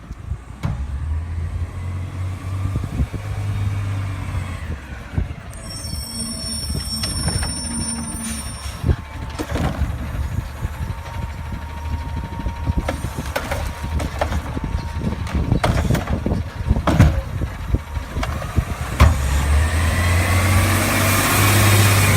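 Garbage truck's engine running with a steady low drone, broken by sharp knocks and clanks. A high steady squeal lasts a couple of seconds about a quarter of the way in, and the engine speeds up loudly near the end with a rising and falling whine.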